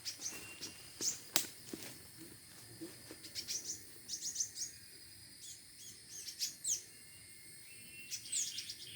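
A small songbird giving short, high, downward-sliding chirps in quick clusters of several notes, with pauses between clusters. Two sharp clicks come about a second in.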